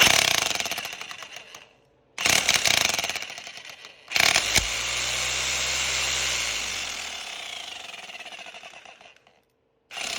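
Bosch 700-watt hammer drill running with its hammer action in three bursts, each starting at full power and winding down. The third run lasts about five seconds, and its pitch falls as the motor spins down. The drill hammers and spins again now that its sheared woodruff key has been replaced with a custom-ground one.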